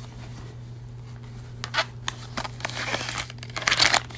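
A paper gift bag and its contents rustling and crinkling as the bag is opened, in a few short scratchy bursts with the longest near the end, over a steady low hum.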